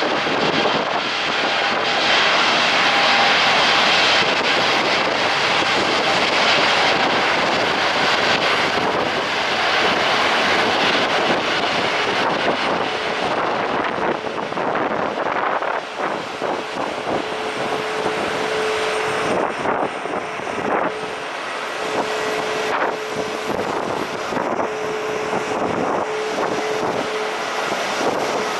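Airliner engines running, loudest in the first half, with a steady whine holding through the second half, heard under strong wind buffeting the microphone.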